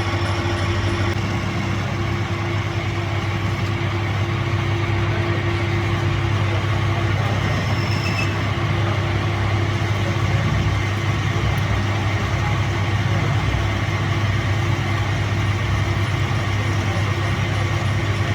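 A machine running steadily with a low hum. A steady higher tone in it stops about seven seconds in.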